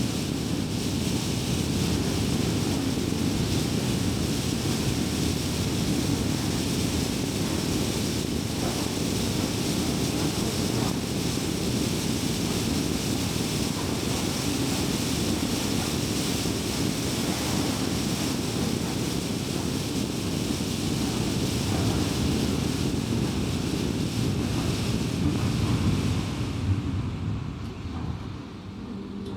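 A car driving at highway speed: steady tyre and road noise with wind rush. About 27 seconds in it quietens and the high hiss falls away.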